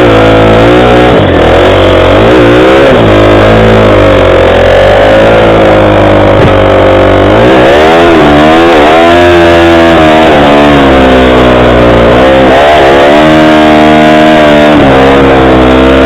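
Motorcycle engine running hard while riding, very loud and close, its revs rising and falling again and again as the throttle and gears change.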